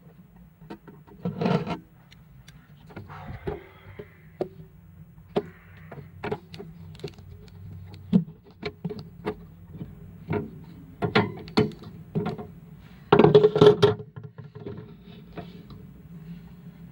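Irregular clicks and knocks of small parts and tools being handled, with a louder rustling burst about thirteen seconds in, over a steady low hum.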